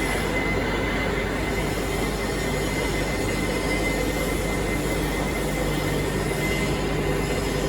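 Steady industrial machinery noise: a continuous, even rumble and hiss with a thin steady high whine above it and a low hum beneath.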